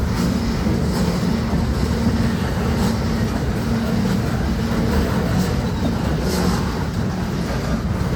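BNSF freight train rolling past: a steady, loud rumble with occasional clacks of wheels over rail joints.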